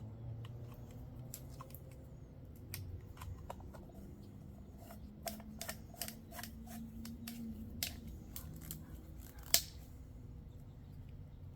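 Irregular small clicks and taps of PVC pipe parts being handled and fitted together, with one sharper click about nine and a half seconds in.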